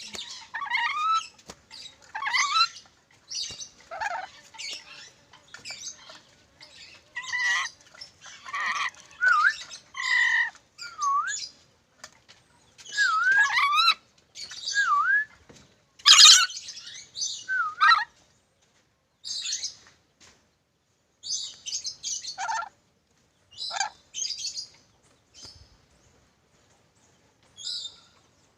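Nuri dora parrot calling in short bursts: harsh squawks and screeches mixed with clear whistled notes that dip down and swoop back up. The calls come thick and fast at first, then thin out with longer pauses in the second half.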